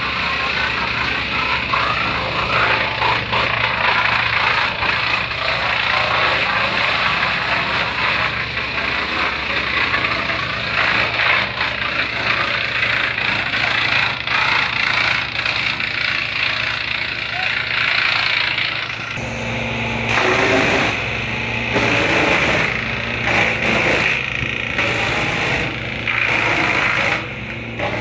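Diesel engine of a towable wood chipper running steadily, with a dense mechanical roar over it. A little past the middle the sound turns choppier, with repeated short surges.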